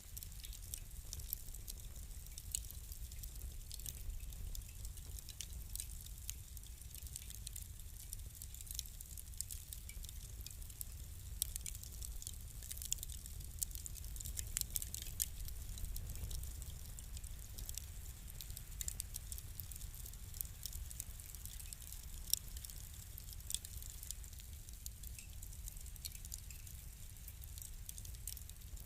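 Fire crackling: frequent small pops and snaps, irregular, over a low steady rumble.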